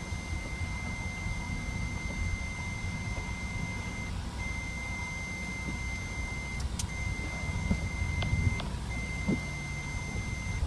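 A steady high-pitched electronic beep tone, held for seconds at a time with a few short breaks, over a low rumble of vehicles.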